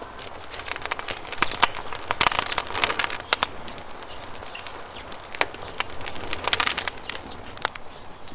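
Wood campfire crackling, with many sharp, irregular pops that cluster in bursts, over a soft steady rush of flowing river water.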